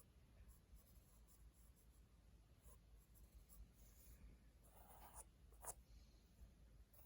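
Faint pencil strokes scratching on paper: light sketching and shading, with one sharper stroke about three quarters of the way in.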